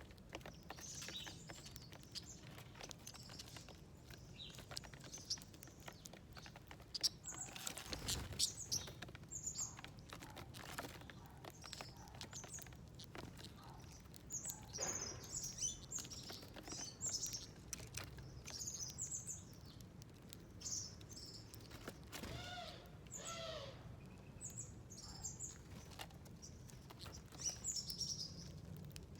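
Small wild birds chirping, with short high chirps scattered irregularly throughout. A little past the middle comes a short run of lower, arched repeated calls.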